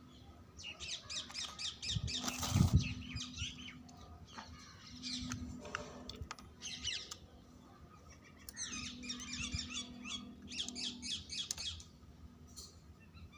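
Birds chirping in repeated bursts of quick high notes, with a loud knock about two and a half seconds in and a faint low hum that comes and goes.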